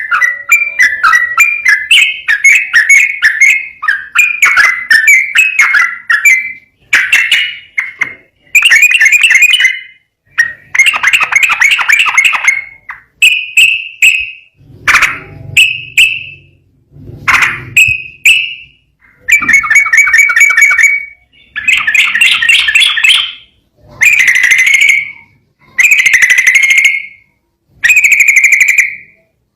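Yellow-vented bulbul (trucukan) singing loud, bubbly whistled phrases. The song starts as a fast run of short notes, then breaks into separate phrases of a second or two with short gaps between.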